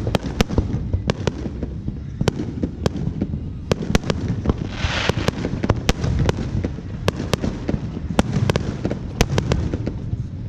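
Fireworks going off: a rapid, irregular string of sharp cracks and pops over a constant low rumble of booms, with a short hiss about halfway through.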